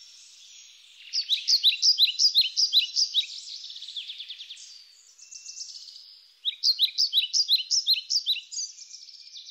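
A songbird singing in two bouts of quick, repeated high-pitched chirping notes, the second starting about six and a half seconds in, over a faint steady hiss.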